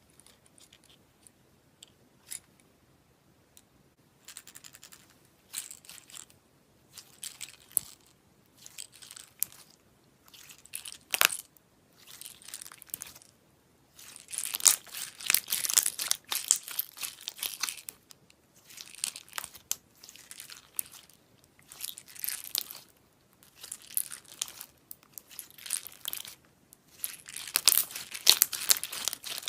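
Slime being squeezed and stretched by hand, crackling and popping in short bursts that repeat about once a second, starting a few seconds in and growing louder later on.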